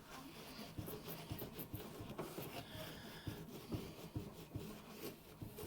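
Faint, irregular rubbing and scratching with light knocks, as of a greasy microwave surface being scrubbed by hand.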